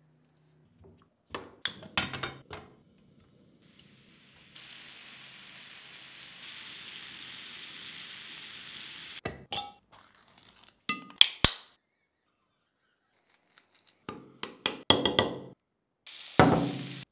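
Sharp taps and knocks as raw chicken and vegetable pieces are pushed onto wooden skewers, then chicken skewers sizzling steadily in hot oil for about five seconds. After that come several clusters of sharp clinks and knocks, and a short hiss near the end.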